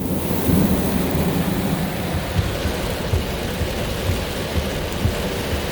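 Heavy downpour beating steadily on a car, heard from inside, with a low rumble of thunder underneath and scattered dull thumps of larger drops or gusts.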